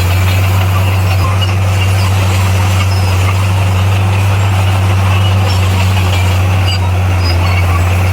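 Bulldozer's diesel engine running loud and steady, a deep drone that holds one even pitch throughout.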